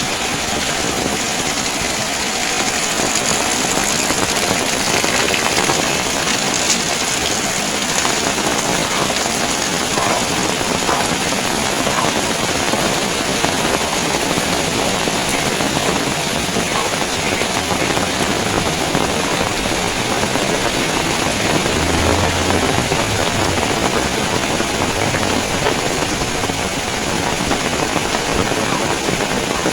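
Heavy rain falling steadily, a dense even hiss, with a brief faint low hum about two-thirds of the way through.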